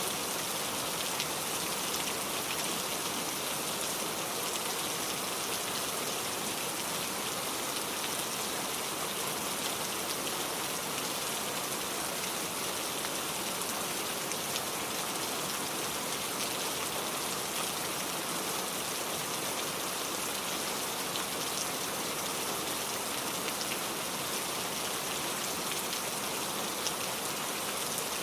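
Steady rainfall, a dense even hiss of drops with fine pattering ticks on surfaces.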